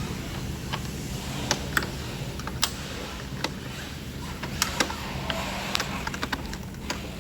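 Irregular light clicks and taps from hand work on a car engine, a few sharper than the rest, over a steady low hum.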